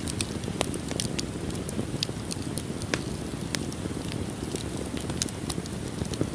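Wood fire burning in a fireplace: a steady low rushing of flames with irregular sharp crackles and pops, several a second.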